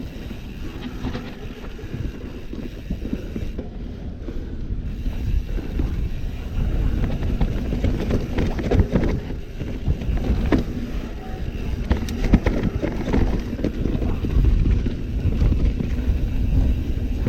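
YT Capra downhill mountain bike riding a rough trail: tyres rumbling over dirt and roots, with the chain and frame rattling and clicking over bumps, and wind on the microphone. The rattling gets louder about six seconds in.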